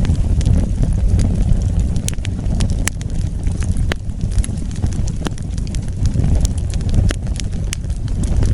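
Wood fire burning, a steady low rumble of flames with frequent irregular sharp crackles and pops from the burning logs.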